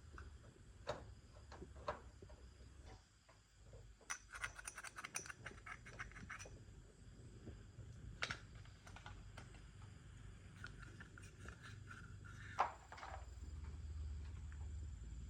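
Small metal parts and hand tools clicking and clinking, with a quick run of clicks about four seconds in and one sharper click near the end, over a low steady hum.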